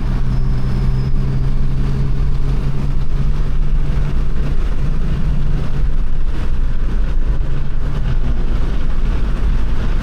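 Car engines running among many cars: a steady low engine drone over a constant rumble, the drone dropping away about eight seconds in.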